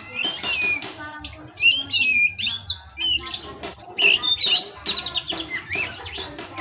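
Oriental magpie-robin (kacer) singing a fast, varied song of gliding whistles mixed with short harsh chattering notes, without a break.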